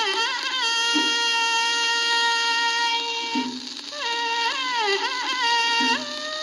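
A female vocalist sings Thai classical song from an early shellac 78 rpm record, with record surface hiss underneath. She holds one long note, then sings a run of wavering, gliding ornaments about four seconds in.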